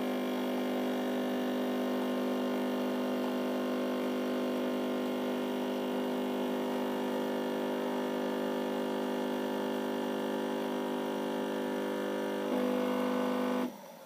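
Bosch Tassimo Fidelia pod coffee machine's pump humming steadily while it brews a drink. The hum changes note and gets louder about twelve and a half seconds in, then cuts off suddenly as the brew cycle ends.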